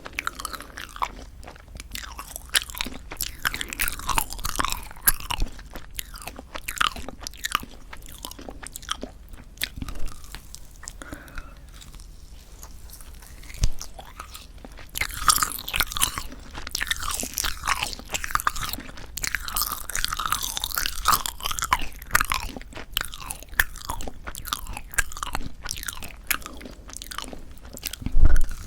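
Close-miked chewing of a tough, rubbery marshmallow pop: wet sticky smacking and squelching with irregular small clicks, busier in two stretches in the middle.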